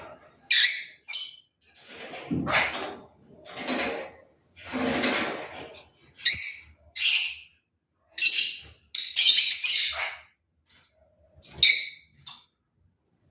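Plum-headed parakeet making a series of short, shrill calls. Longer, rougher, lower sounds come between them from about two to six seconds in.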